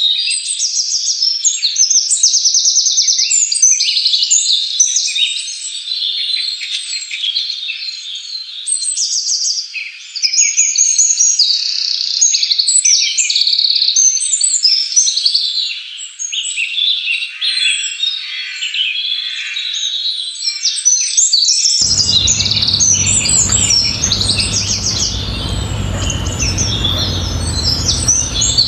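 Dense chorus of many songbirds chirping and trilling over one another, high-pitched and unbroken. About two-thirds of the way through, a steady low rumble of background noise joins the birdsong.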